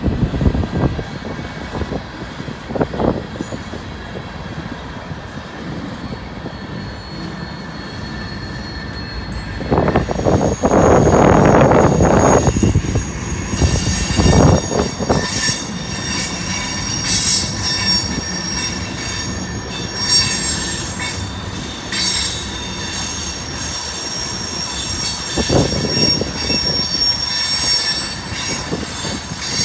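Freight train cars rolling past, empty centre-beam flatcars giving way to tank cars, with wheels and couplers knocking irregularly. A louder rush of rumbling comes about a third of the way in, and a thin high steel-wheel squeal runs through the second half.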